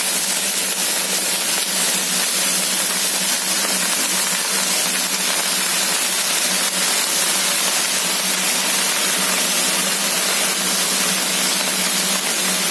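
Wet chopped Malabar spinach sizzling in hot oil in a nonstick pan: a steady, even hiss as the water left on the washed leaves hits the oil, with a steady low hum underneath.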